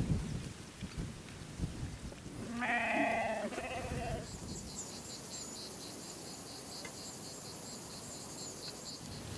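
A farm animal bleats once, about two and a half seconds in: a wavering call in two parts lasting about a second and a half. After it, a steady high-pitched hiss with a fast ticking pattern sets in.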